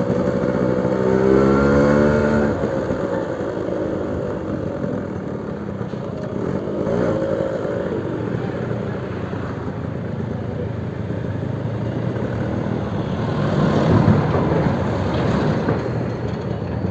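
Suzuki RC100's single-cylinder two-stroke engine running through its new aftermarket exhaust. The note climbs in the first couple of seconds, then settles into a rougher, noisier run that swells twice more, around the middle and near the end.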